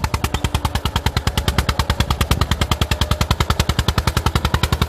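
Eicher 1981 tractor's diesel engine running while it pulls an eight-tine cultivator, with a loud, even exhaust beat of about a dozen pulses a second.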